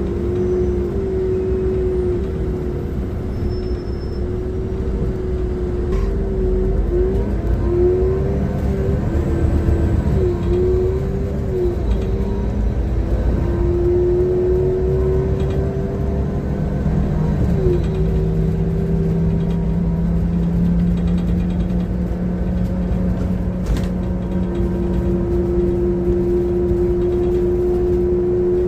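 City bus engine and drivetrain running under way with a low rumble and a loud whine that rises and falls as the bus speeds up and slows, then holds a steady pitch near the end; the uploader calls it a bad engine sound.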